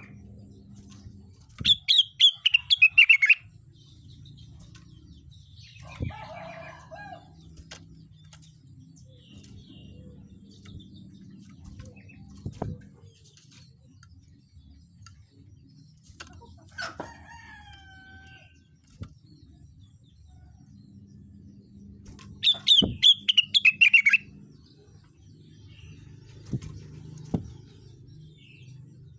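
A rengganis songbird singing in two loud, fast bursts of rapid high chattering notes, each about a second and a half long, one near the start and one about twenty seconds later, with a few softer calls in between.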